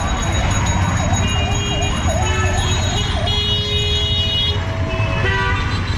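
Emergency vehicle siren warbling rapidly, about four rises and falls a second, over the low rumble of street traffic; it stops about three seconds in. Vehicle horns then sound, one long blast and a short one near the end.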